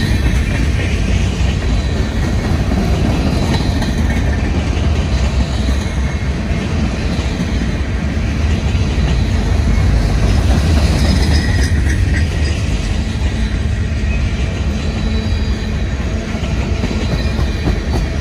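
Manifest freight train's cars (covered hoppers, tank cars, boxcars) rolling past: a steady, loud rumble of steel wheels on rail.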